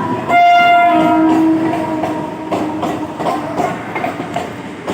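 Indian Railways train horn sounding once, about a third of a second in: a loud higher note that gives way to a lower one, fading within a couple of seconds. A running train's rumble and rhythmic wheel clatter continue underneath.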